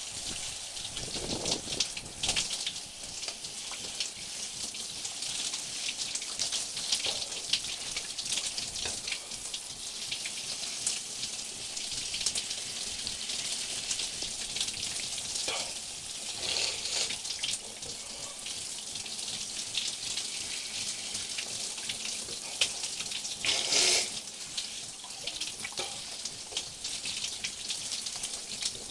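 Water running and splashing in a steady hiss, with a few brief louder gushes.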